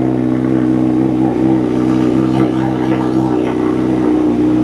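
Honda CBR1000RR-R Fireblade's inline-four engine idling steadily through an Arrow slip-on exhaust.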